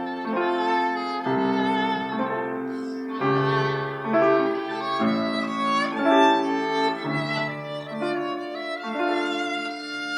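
Violin playing a melody of held notes with vibrato, accompanied by piano.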